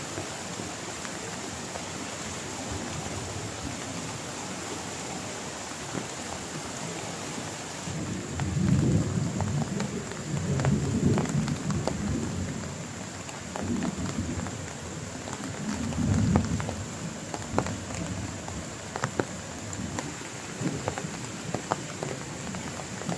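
Heavy rain falling steadily, with thunder rumbling in several low swells through the middle. Sharp drops tap close by in the later part.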